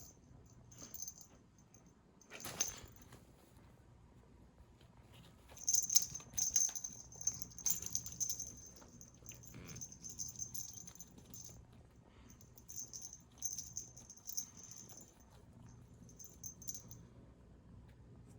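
A small cat toy rattling in bursts as it is shaken and dragged during play, with one sharp knock about two and a half seconds in.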